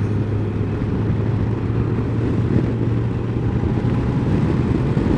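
Honda CBF1000's inline-four engine running steadily at cruising speed, a low, even hum under a dense rush of wind noise.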